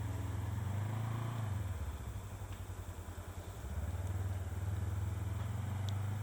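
A vehicle engine running with a low, pulsing rumble. It is loud at first, fades a little about two seconds in, and comes back up in the second half.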